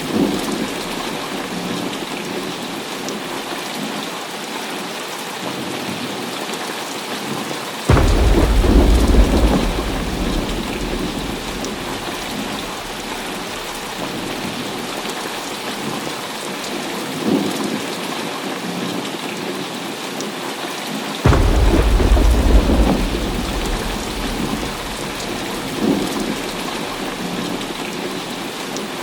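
Heavy rain pouring steadily, with two loud thunderclaps that start suddenly and rumble away over several seconds, about a quarter of the way in and again about three quarters of the way in. Fainter rumbles of thunder sound between them.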